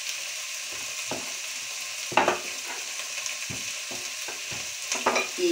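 Chopped onion and green pepper frying in olive oil in a pot, a steady sizzling hiss, with a few short knocks and handling sounds over it.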